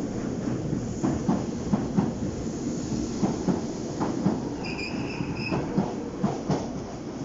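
DART 8100/8300-class electric multiple unit running past at low speed: a steady rumble with wheels clacking on the track in an uneven rhythm. A brief high squeal comes about five seconds in.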